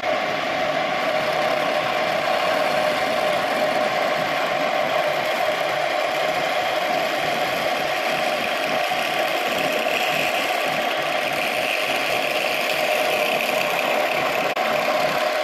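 Homemade wood lathe running steadily, its motor giving an even whine over a constant rushing hiss as the wood spins.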